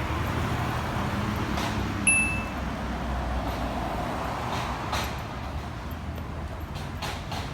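Steady background rumble and hiss, with a short high beep about two seconds in.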